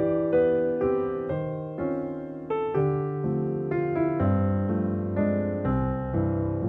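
Soft, slow piano music: single notes and chords struck about every half second and left to ring and fade.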